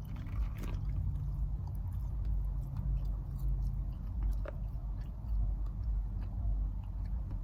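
A person chewing food close to the microphone, with small wet mouth clicks, over a steady low rumble.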